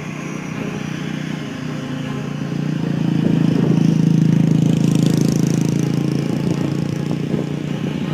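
A vehicle engine running steadily, growing louder a few seconds in and then easing off, with a brief rise in hiss near its loudest point.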